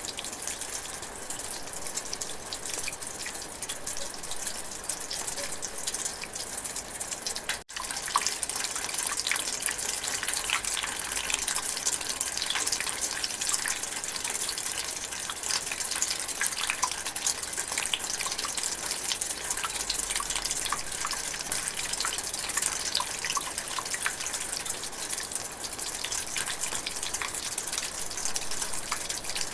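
Drizzling rain in a forest: a steady hiss of dense patter with many small drop hits. It cuts out for an instant about eight seconds in and resumes a little louder.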